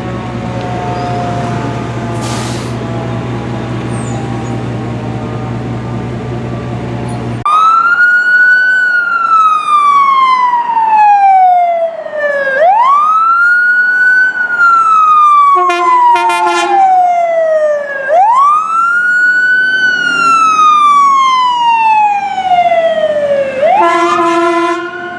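Fire-department emergency vehicle's engine running steadily. It changes abruptly to a loud siren wailing, each cycle a quick rise and a slow fall about every five and a half seconds. Short air-horn blasts sound twice during the wail.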